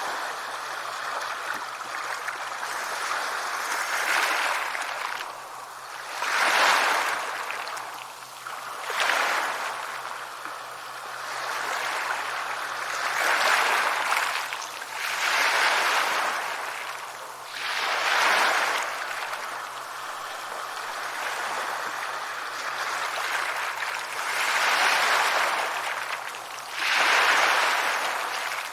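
Sea waves breaking and washing on a shore, the surf swelling and falling back every few seconds.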